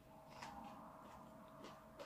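Near silence: faint mouth sounds of someone chewing mango, a few soft clicks, over a faint steady hum.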